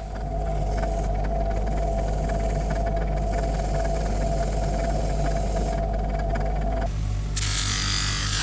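A small electric power tool running steadily with a constant hum and whine, joined about seven seconds in by a harsh abrasive hiss as it works against the surface, typical of cleaning or sanding plane parts.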